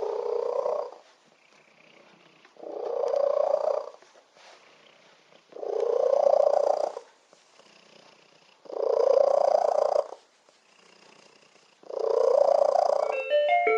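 A cat purring very loudly, in five long purrs about three seconds apart with near silence between them.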